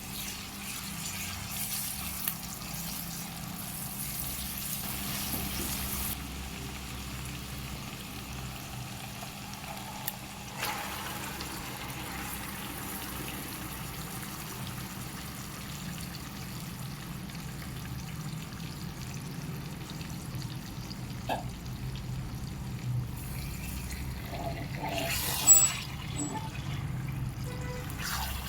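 Water running, with a steady low hum under it and a few short knocks, a cluster of them loudest near the end.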